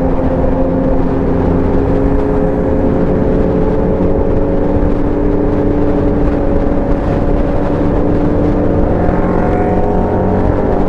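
Motorcycle engine running under way, its pitch climbing slowly and steadily as it gathers speed, over a constant rumble of wind and road noise.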